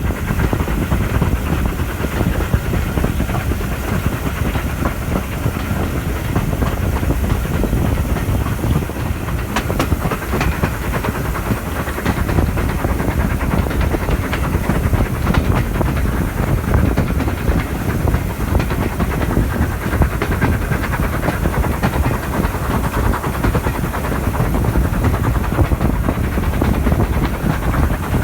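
Steam train under way, hauled by an Ivatt Class 2 steam locomotive: a steady, loud running rumble of wheels on the rails with steam hissing, and a few faint clicks of the rail joints about ten and fifteen seconds in.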